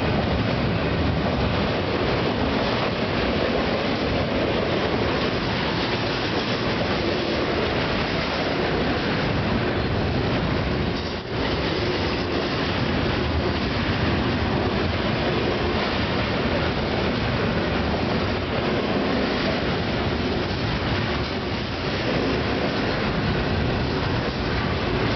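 Freight train wheels rolling past close by: the steady rumble and rattle of a double-stack intermodal train's loaded well cars on the rails, with a coal train of hopper cars passing on the adjacent track.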